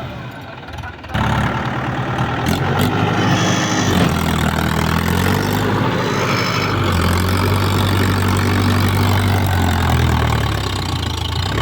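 Mahindra Yuvo 415 DI tractor's four-cylinder diesel engine running under load, its pitch wavering up and down, as the tractor strains with a heavily loaded trolley stuck in mud. The engine gets much louder about a second in.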